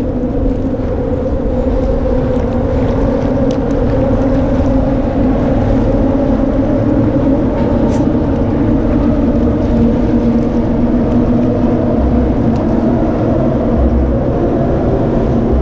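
Steady drone of a small boat motor running under way, humming evenly throughout.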